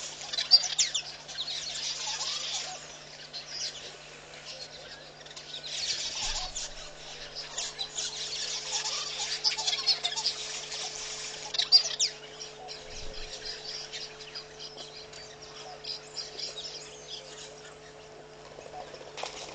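Birds chirping and peeping densely in high-pitched bursts, heaviest in the first few seconds and again from about six to twelve seconds in, then thinning out, over a steady low hum.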